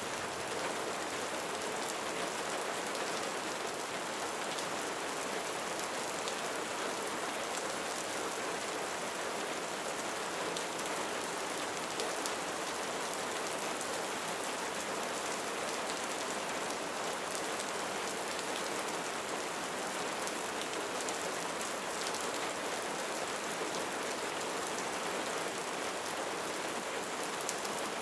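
Steady rain falling on a roof, an even hiss with scattered individual drop taps.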